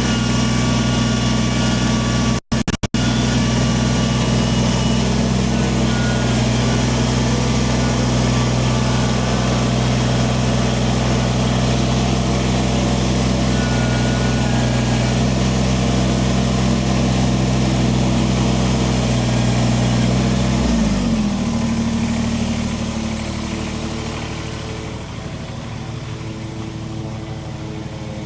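Kubota BX23S compact tractor's diesel engine running steadily, then slowing about 21 seconds in to a lower, quieter run. The sound cuts out briefly a couple of times about two and a half seconds in.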